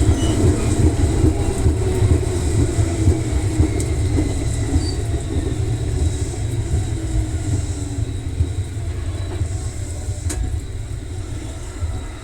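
Electric commuter train running, heard from inside the car: a steady rumble of wheels and running gear with some motor tones, growing gradually quieter as the train slows.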